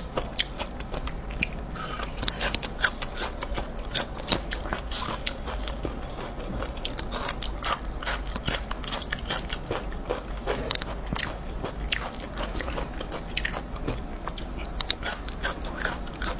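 Close-miked chewing of spicy beef-skin strips, very crunchy: a fast, irregular run of crisp crunches.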